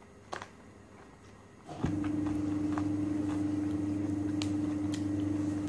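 Eating sounds: scattered crisp bites and chewing clicks from spring rolls and cucumber sticks. About two seconds in, a loud, steady low hum starts abruptly and becomes the loudest sound.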